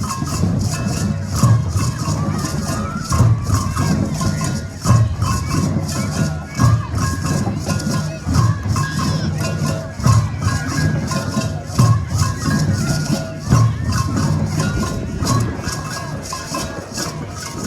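Rhythmic percussion music: a shaker-like rattle at about three strokes a second over a deeper drum pulse, with some pitched tones.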